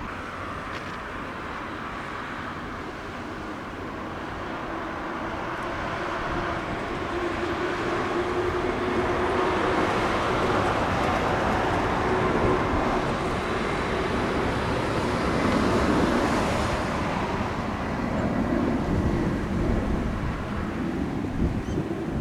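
Jet airliner engine roar that builds over several seconds, stays loud for a while, then eases slightly.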